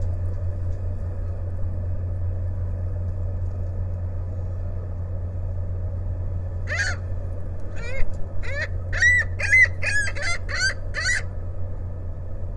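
Gulls calling over a steady low rumble: a single call about seven seconds in, then a quickening run of repeated calls for a few seconds.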